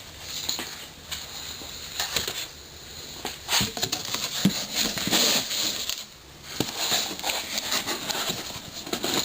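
Packing material rustling and crinkling in irregular bursts, with a few light knocks from parts being handled out of a box.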